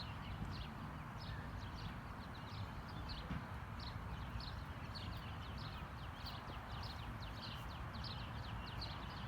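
Many short, high chirps from small animals, several a second, over a steady low rumble.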